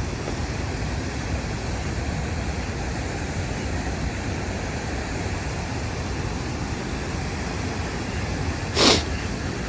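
Steady outdoor rushing noise, with a short, loud swish near the end.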